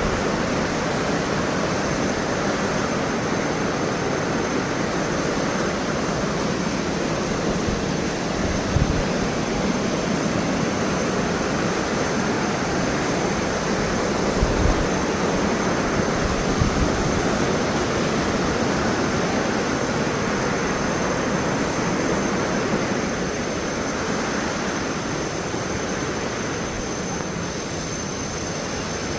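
Thomson's Falls, a 74 m waterfall, rushing steadily, with a few brief low thumps in the middle; the rush eases slightly near the end.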